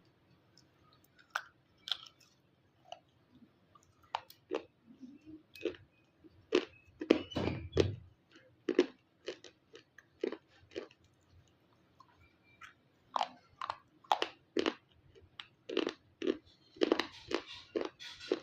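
Dry white clay eaten with a red paste, bitten and chewed into irregular crisp crunches close to the microphone. There is a dense flurry of heavy crunching about seven seconds in and another near the end.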